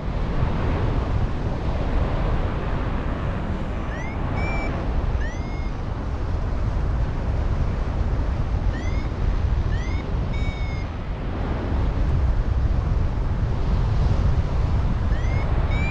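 Strong wind buffeting the microphone in flight, a steady rushing noise, with a few groups of short high chirps that rise in pitch.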